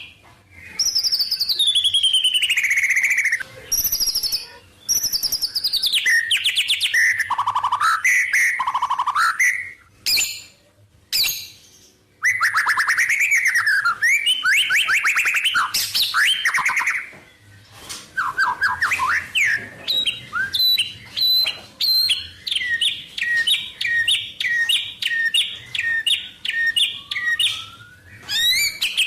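White-rumped shama (murai batu) singing a varied song of sweeping whistled slurs and rapid trills, a song packed with imitations of wild birds. About two-thirds of the way in it settles into a long run of repeated two-note chips, about two to three a second.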